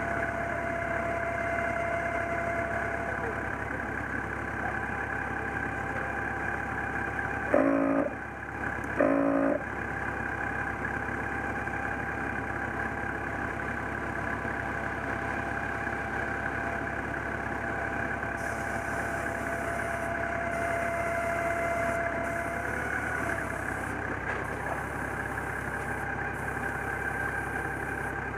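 A 4WD's engine idling steadily. Two short, loud horn honks come about eight seconds in, a second and a half apart.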